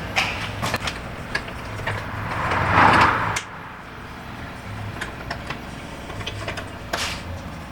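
Hands working stiff aluminium A/C lines into place under a van's body: scattered clicks and knocks of metal and plastic, with a louder rubbing noise that builds and stops suddenly about three and a half seconds in.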